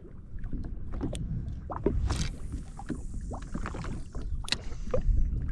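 Low rumble of wind and water around a jet ski at anchor, with scattered small knocks and clicks and a brief swish about two seconds in.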